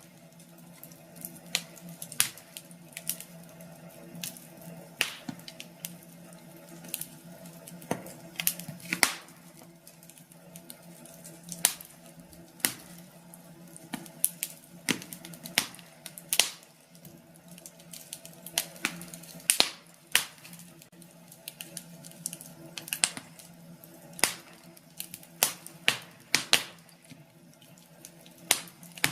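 Wood fire crackling in a fireplace: irregular sharp pops and snaps, a few a second, over a faint steady low hum.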